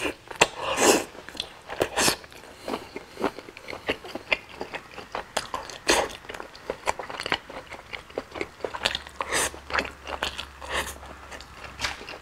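A person biting and chewing Chinese sausage and rice close to a clip-on microphone, with many irregular wet clicks and crunches of eating.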